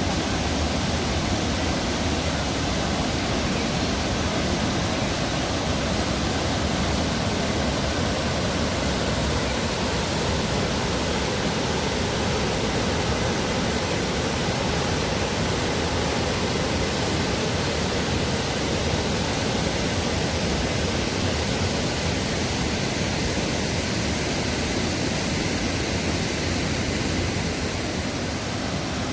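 Waterfall: water pouring and splashing as a steady, even rush without breaks.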